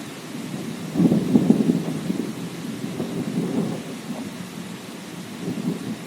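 Steady rain with rolling thunder: the loudest crackling rumble starts about a second in, with weaker rumbles past the middle and near the end.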